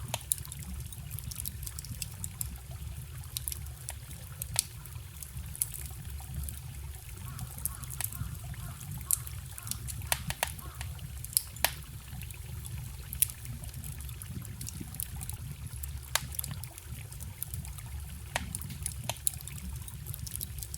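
Wood fire crackling, with sharp pops scattered irregularly throughout, over the steady rush of a small forest stream.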